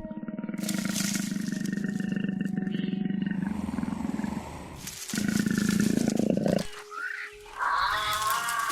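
Tiger roaring: two long, low calls, the second shorter, then a different, higher wavering sound begins near the end.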